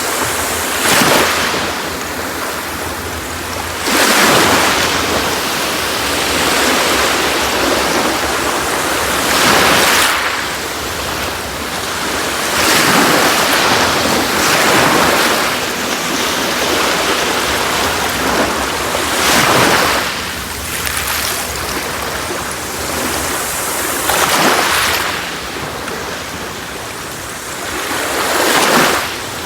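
Sea waves breaking and washing up on a beach, a steady surf wash with a louder swell every few seconds.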